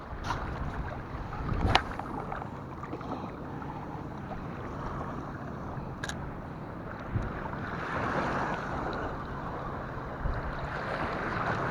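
Wind rushing over the microphone with waves washing on the beach, swelling a couple of times, and a few sharp clicks of handling.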